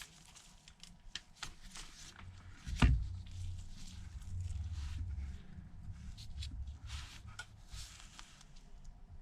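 Small clicks and rustles of parts and tools being handled on a workbench, with one sharper knock about three seconds in and a low rumble of handling noise after it.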